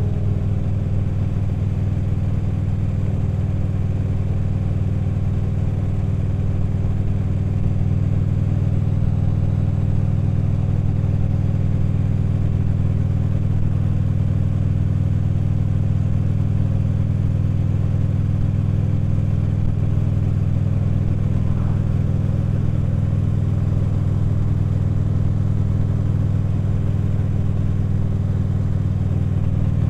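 Harley-Davidson V-twin motorcycle engine running steadily at cruising speed, a low, even drone with no revving or gear changes.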